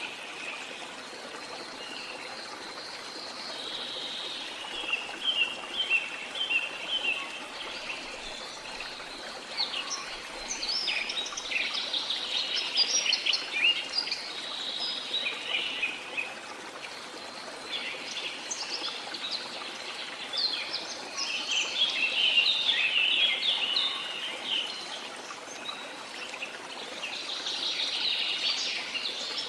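Birds chirping and trilling in busy spells over a steady hiss of flowing water.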